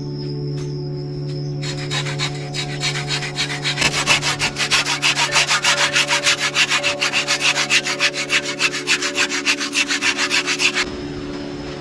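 Rapid, even back-and-forth rubbing strokes on wood, about five a second, starting about two seconds in and stopping shortly before the end. Steady background music with held tones runs underneath.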